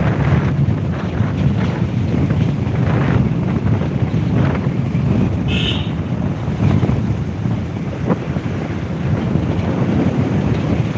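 Wind buffeting the microphone, a steady low rumble with gusty fluctuations, with one brief high-pitched sound about halfway through.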